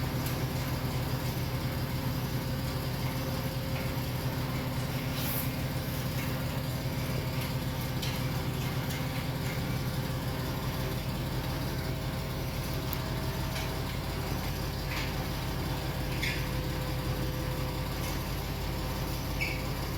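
A vehicle engine idling steadily, with a few faint clicks and knocks over it.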